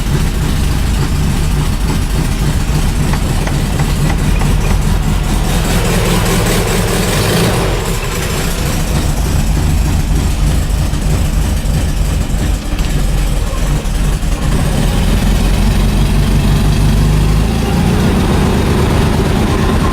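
1971 Volkswagen Beetle's air-cooled 1600cc flat-four engine running rough just after a cold start. Its note shifts briefly about six seconds in.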